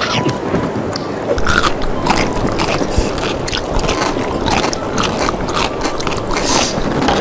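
Close-miked chewing of a mouthful of spicy ramen noodles: a steady run of wet, irregular mouth clicks and smacks.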